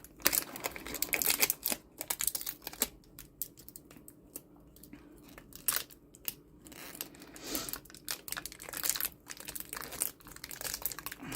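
Hands peeling and prying at a freshly cured silicone mold and its casing, making intermittent crinkling, tearing and small clicks. The noises come thicker at the start and again after about 7 seconds, with a sparser stretch in between.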